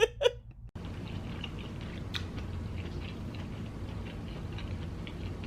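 A person chewing a big mouthful of food close to the microphone: soft wet mouth sounds and faint small clicks over a steady low hum.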